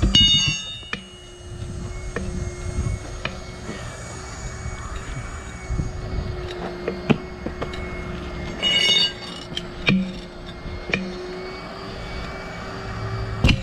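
Steel tire irons working the bead of a heavy 19.5-inch truck tire over its rim. Rubber squeals briefly against the steel near the start and again about nine seconds in, with scattered clicks and scrapes of the bars in between.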